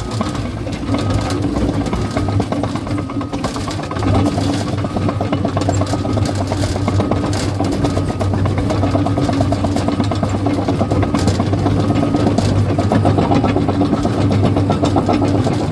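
Caterpillar bulldozer's diesel engine running under load, with steady clanking and rattling from the steel tracks. A backup alarm beeps repeatedly, about once a second.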